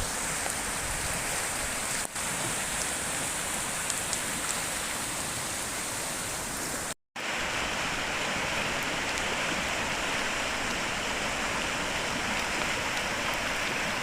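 Steady rushing water of a brook in flood, mixed with rain. The sound cuts out for a moment about seven seconds in and returns slightly brighter.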